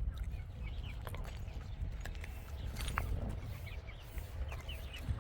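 Birds chirping in short high notes over a steady low rumble, with a few sharp clicks.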